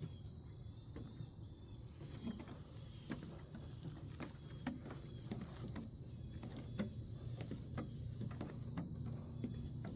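Crickets trilling in one steady, high, unbroken note, with a low rumble underneath and scattered light knocks.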